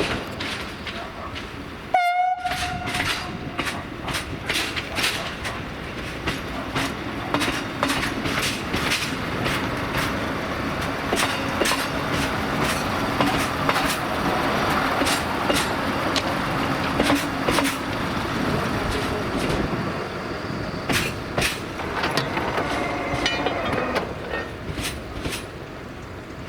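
Train passing through a station. A short horn blast sounds about two seconds in, followed by a long run of wheels clicking over rail joints.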